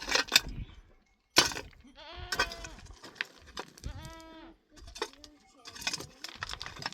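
Goats bleating: two wavering calls about two and four seconds in, with a fainter one after, among a few sharp knocks.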